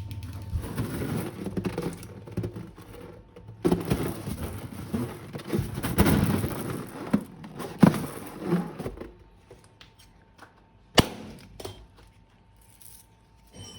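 Slime being squeezed and mixed by hand, with wet squishing and crackling over the first nine seconds or so, then quieter handling and one sharp click near the end.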